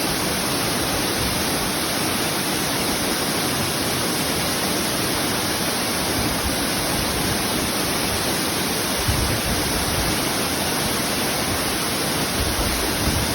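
Twin waterfall pouring: a steady, even rush of falling water.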